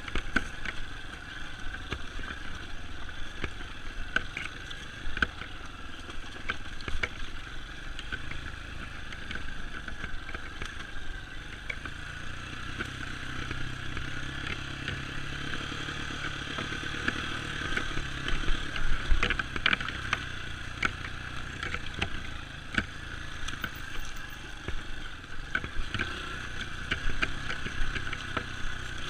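Dirt bike engine running while riding a trail, with many scattered knocks and clatter throughout.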